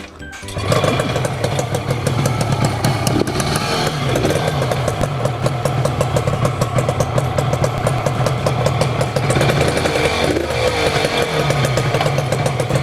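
Air-cooled conversion of a Yamaha TZR250 1KT two-stroke parallel-twin engine coming in about half a second in and then running on its first test run, a fast pulsing idle whose revs rise and fall a little now and then.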